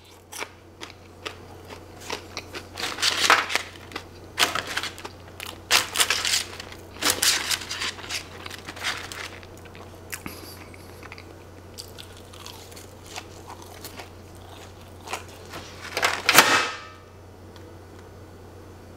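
Close-miked chewing and wet mouth sounds of someone eating cheese-covered crinkle-cut fries, irregular and busiest in the first half, with one louder burst near the end.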